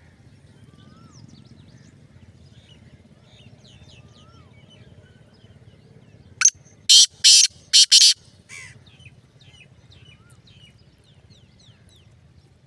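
Black francolin giving its loud, harsh call: a grating phrase of about five notes lasting roughly two seconds, a little past the middle, with a weaker last note. Faint chirps and short whistles of small birds run underneath.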